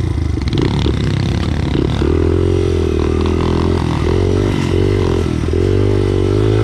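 Pit bike's small single-cylinder engine running under throttle, its pitch wavering with brief dips about four and five and a half seconds in as the rider eases off and opens up again.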